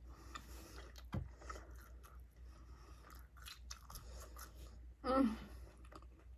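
Close-miked chewing of French fries: soft wet mouth sounds with small crunches and clicks. About five seconds in, a short voiced hum from the eater.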